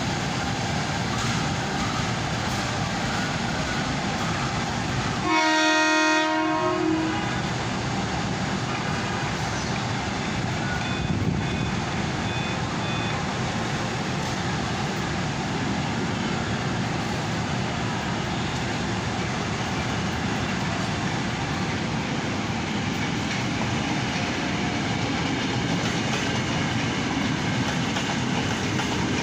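Commuter train pulling out of the station, rolling with a steady rumble and wheel clatter. About five seconds in it sounds one horn blast lasting about a second and a half.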